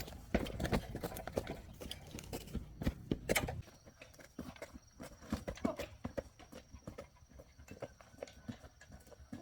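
Irregular knocks and clatter, dense and louder for the first three and a half seconds, then sparser and quieter.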